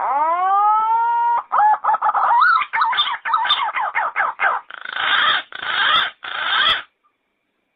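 Yellow-footed green pigeon calling: a long rising whistle, then a quick run of wavering, warbling notes, ending in three harsh rasping notes. The call stops about seven seconds in.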